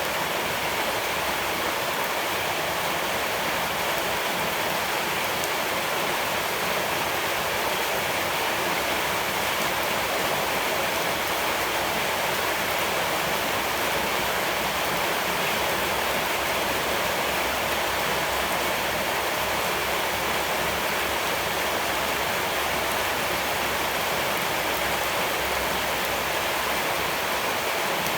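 Rushing water, a steady, unbroken hiss of flowing water.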